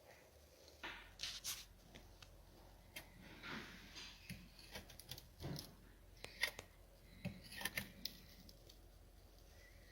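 Faint, scattered clicks and rustles, as of small objects being handled, with the sharpest clicks clustered in the second half.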